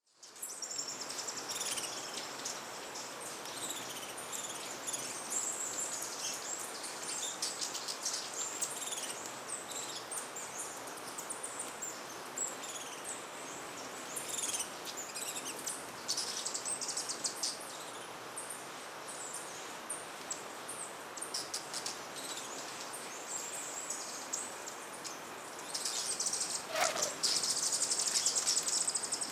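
Hummingbirds at busy feeders giving many short, high-pitched chips and twitters over a steady hiss of forest insects. The calling grows denser and louder near the end, where a single falling note also sounds.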